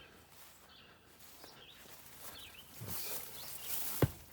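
Outdoor background with faint, scattered bird chirps, and a single sharp click shortly before the end.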